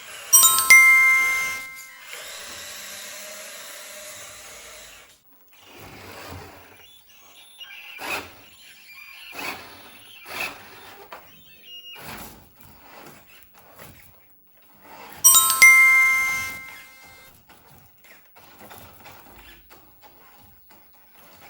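A bright ding-dong chime of several ringing tones sounds twice, near the start and again about fifteen seconds in. Scattered light clicks and knocks come in between.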